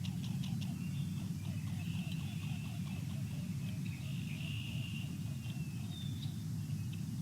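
Small birds at a feeder calling and twittering in high, drawn-out notes, with a quick run of sharp clicks in the first second or so, over a steady low rumble.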